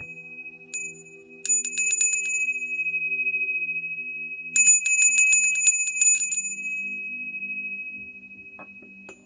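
A small metal bell rung by hand: one strike, then two bursts of rapid strokes, its high tone ringing on and fading away near the end, over a faint low hum. It is played to infuse sound healing energy.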